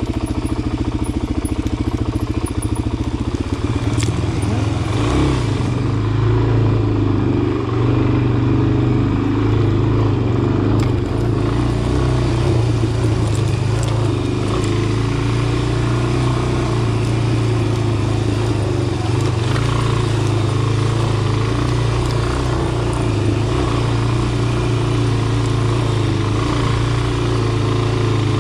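Dirt bike engine running steadily at low trail speed in first gear, its pitch holding fairly even, with a few light knocks from the bike over bumps.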